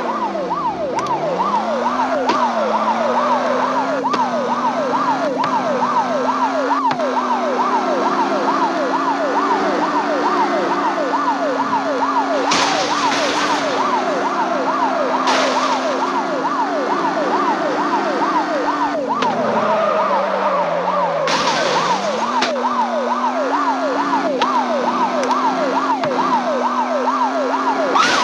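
Police car siren on its fast yelp setting, sweeping up and down about three to four times a second without a break, over the car's engine revving up and easing off. A few short rushes of noise cut in about halfway and again later on.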